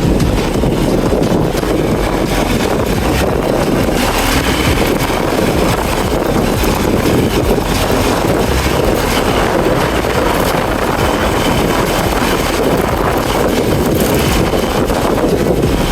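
Wind rushing over the microphone of a moving motorcycle, with steady road and engine noise underneath.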